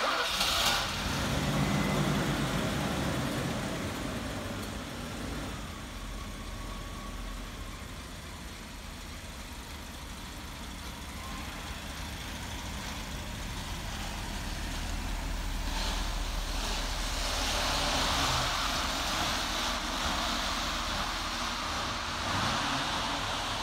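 Mercedes-Benz 560SL's 5.6-litre V8 starting up and running: the engine comes in suddenly, runs higher for the first couple of seconds, then settles to a steady idle. It grows louder again in the last several seconds as the car moves off.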